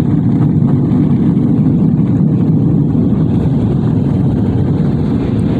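Mark VII ChoiceWash XT car wash dryer blowers running: a loud, steady rush of air that sounds like a turbojet.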